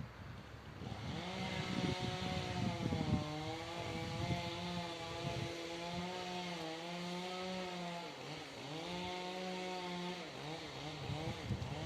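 A train passing the level crossing. Its engine drones at a steady, slightly wavering pitch over a hiss of rolling noise. About eight and a half seconds in the drone breaks off briefly, then comes back before fading near the end.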